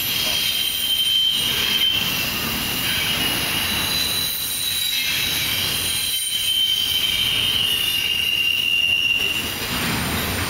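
CSX double-stack intermodal freight cars rolling past over the rails, with a steady rumble and long high-pitched wheel squeal that wavers slightly in pitch.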